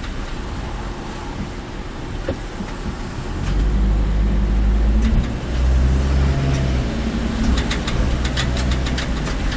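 Car engine and road noise heard while driving, with a deeper, louder engine drone setting in about three and a half seconds in. Scattered sharp ticks come near the end.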